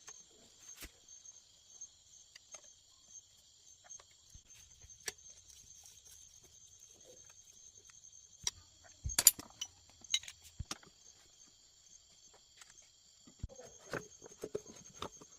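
Steady high-pitched insect chirring, one strand pulsing evenly, with scattered sharp clicks and knocks; a quick cluster of clicks about nine seconds in is the loudest sound.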